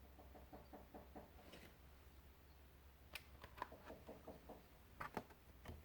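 Near silence: a faint low room hum with a few soft clicks about three seconds in and near the end.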